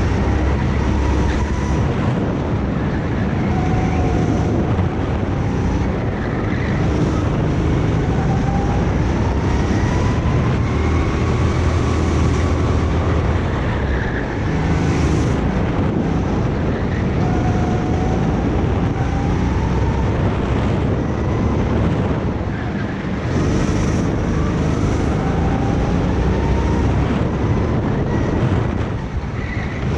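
Go-kart engine running hard, its pitch climbing and then dropping several times over as the kart accelerates and slows, with wind buffeting the microphone.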